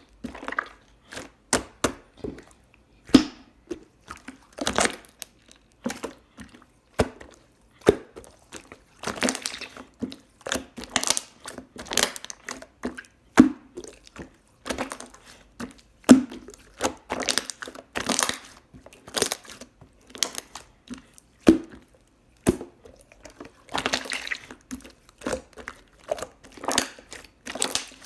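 Close-miked eating sounds: irregular crackles, sticky clicks and crunchy bursts of chewing, several a second, with short pauses between.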